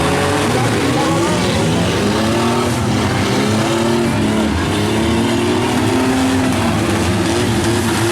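Engines of several compact pickups and vans in a demolition derby revving up and down, overlapping, over a steady noisy din.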